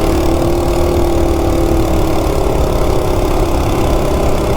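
Coleman 196cc single-cylinder minibike engine running steadily on a newly fitted Coso slide carburetor, holding an even pitch. It runs smoothly even without its jetting tuned yet.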